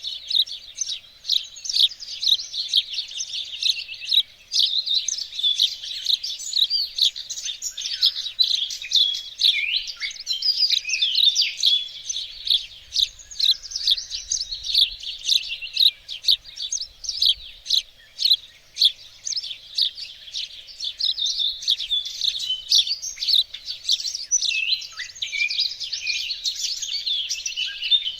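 Several songbirds singing and chirping together in a dense, unbroken chorus of quick, high, overlapping notes and short trills.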